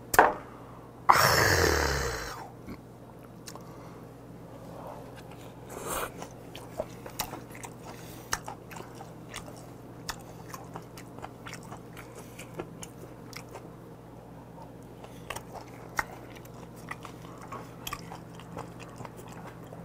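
A man eating raw beef and chopped raw octopus tangtangi: close chewing, with many small wet clicks and smacks. It opens with a knock as a glass is set down and a loud breathy exhale about a second in, after a shot of drink.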